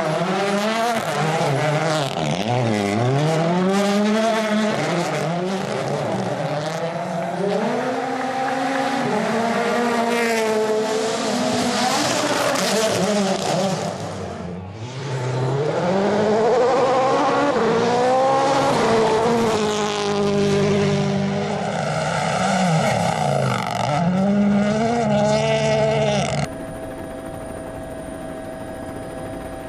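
Rally car engines at full speed, revving up and dropping back again and again through gear changes, with a brief dip about halfway. Near the end the engine sound cuts off suddenly, giving way to a quieter steady whine and hum.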